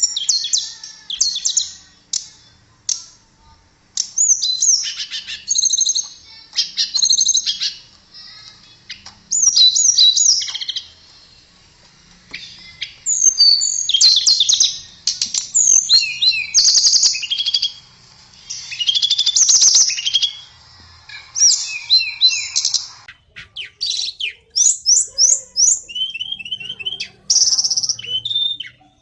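Tledekan (blue flycatcher) singing: a series of short, fast, high-pitched twittering and trilling phrases, each a second or two long, with brief pauses between them.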